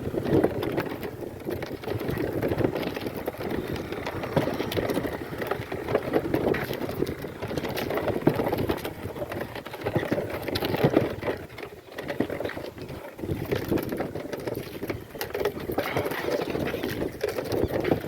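Goat cart loaded with firewood rolling along, the goats' hooves clopping and the cart rattling in a steady, continuous clatter.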